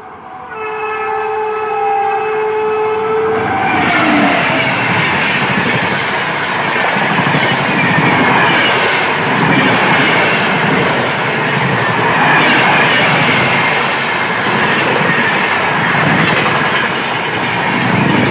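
Indian Railways WAP-7 electric locomotive sounding its horn in one steady blast of about three and a half seconds, which drops in pitch as the engine passes. The loud rush and clatter of the train going by at speed follows, swelling every few seconds as the coaches pass.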